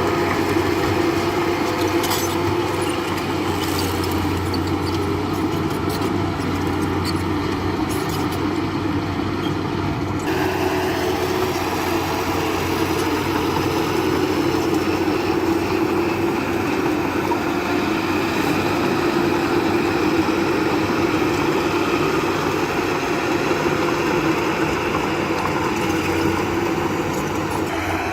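Heavy construction machinery with a diesel engine running steadily, with a few faint clicks and clatter in the first third. The sound changes abruptly about ten seconds in.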